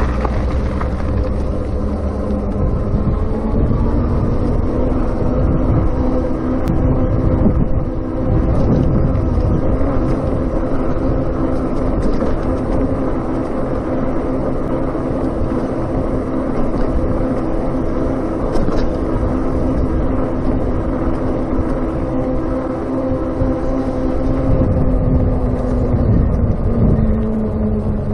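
Electric bike on the move: wind and road rumble with a steady motor hum. The hum's pitch drops near the end as the bike slows.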